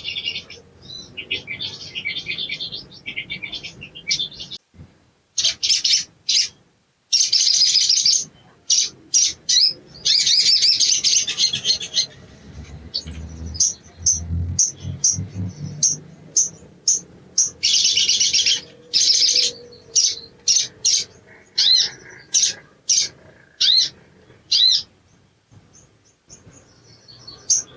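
Sogon (little spiderhunter) calling: runs of rapid, high, sharp chirps and chattering notes, broken by single sharp calls and short pauses. It is the excited singing used to prompt another sogon to call.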